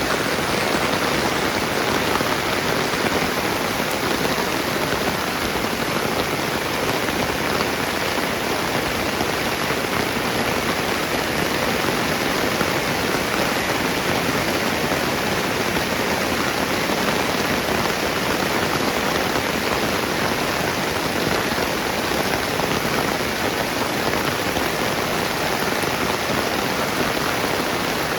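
Steady rain falling on surfaces, a dense, even hiss of raindrops.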